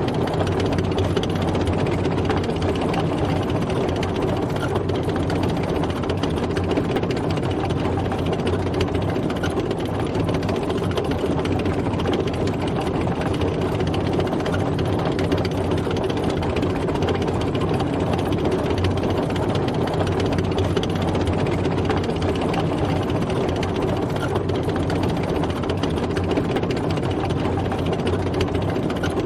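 Tank driving, its engine running steadily and evenly.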